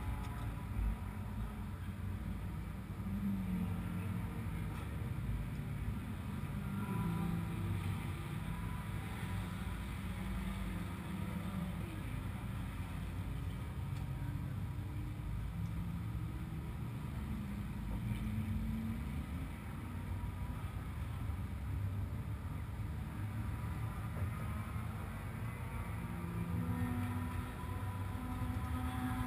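A car engine idling: a steady low rumble that wavers slightly.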